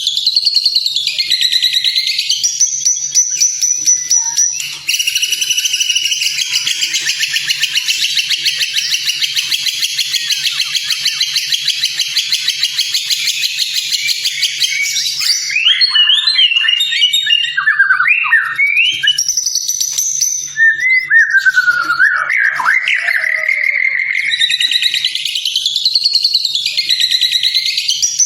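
White-rumped shama (murai batu) singing loudly and continuously, with mimicked phrases: a long, rapid, buzzy trill for about the first half, then a run of quick varied sliding whistles, and a rising-and-falling phrase repeated near the end.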